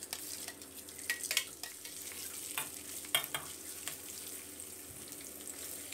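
Sun-dried catfish pieces frying in hot oil in a metal wok with a steady sizzle, while a metal spatula stirs them, giving several sharp scrapes and clinks against the wok.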